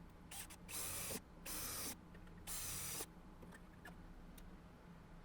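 A torch hissing in four short bursts over about three seconds, used to melt lead body solder out of the car's panel joints.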